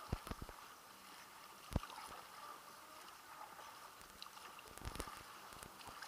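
Water splashing and trickling around a kayak as it is paddled, with a few sharp knocks, the loudest a little under two seconds in.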